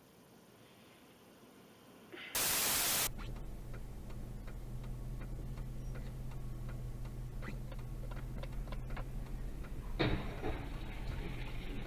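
A short burst of loud static hiss, then a vehicle engine's steady low hum with a scatter of faint ticks. About ten seconds in, a louder noisy rattle rises over the hum.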